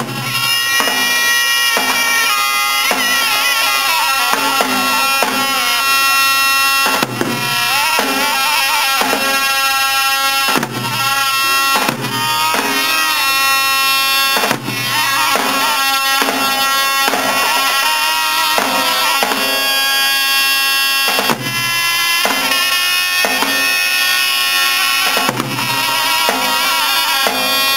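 Solo bağlama (Turkish long-necked saz) played in a free, improvised style on a folk melody, its drone strings ringing under quick plucked runs, with a few hard accented strokes.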